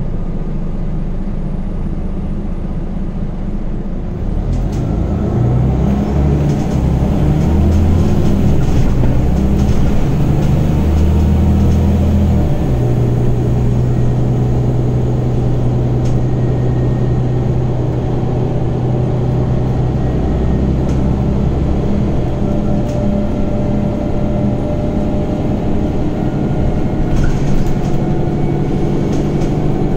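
Scania Omnicity city bus heard from on board: the engine runs quietly at first, then pulls away under load about four seconds in. The ZF Ecomat automatic gearbox shifts up, and the bus then cruises steadily with a faint gearbox whine.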